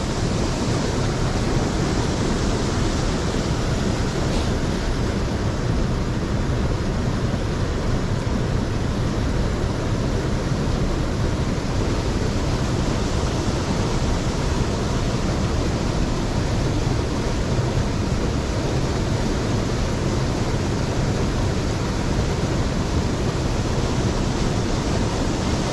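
Steady rushing of a mountain stream flowing over rocks, an even unbroken wash of water noise.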